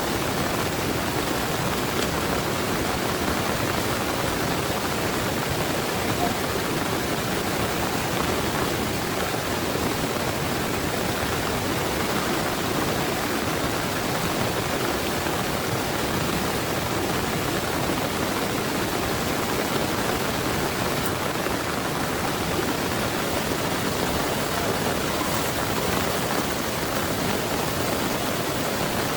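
Heavy rain pouring steadily, an even hiss with no breaks or thunder.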